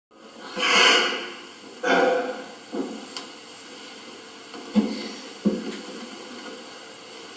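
Movement noise: two breathy, rustling swishes about a second apart and a fainter one after them, then two sharp knocks about half a second apart.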